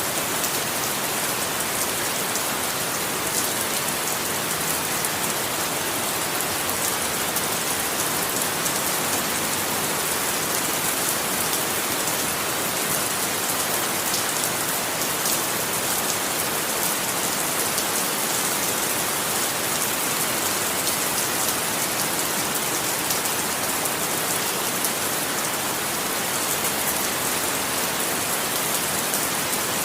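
Steady, heavy rainfall, an even hiss of many drops pattering on a surface, with no thunder.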